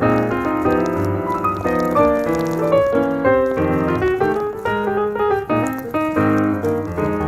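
Background piano music, a quick run of notes played continuously.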